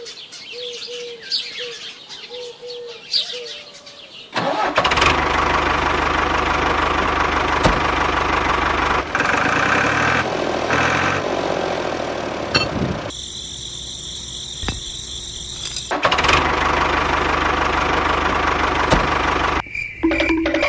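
Birds chirping, then an engine starts running abruptly a few seconds in and keeps going loudly, with sudden changes in its sound partway through.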